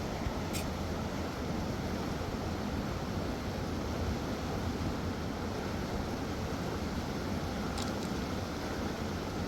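Wind buffeting the microphone outdoors: a steady, uneven low rushing noise with no pitch, plus a couple of faint short high ticks.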